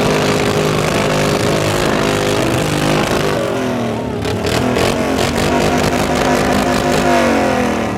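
Car engine revving hard, its pitch sweeping down, up and down again, with a rapid run of sharp pops in the middle.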